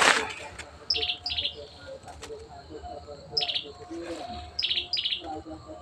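A bird calling: short, quick trilled chirps that start high and fall, given in pairs a few times. A loud rustle of dry leaves at the very start.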